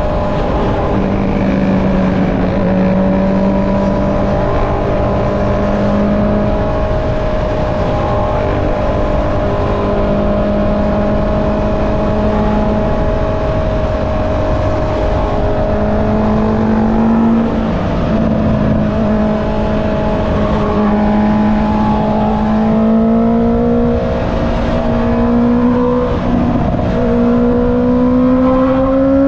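Honda CB650R's inline-four engine through an Akrapovic exhaust, running at steady revs under way, then the pitch climbs steadily over the last several seconds as the bike accelerates. Wind and road rush run underneath.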